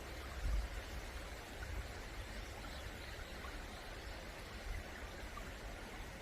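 Stream water running steadily, an even hiss. A low thump comes about half a second in.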